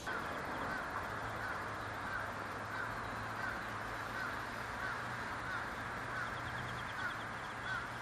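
A bird calling with a short note repeated about one and a half times a second, with a faster ticking trill twice, over a steady background hum.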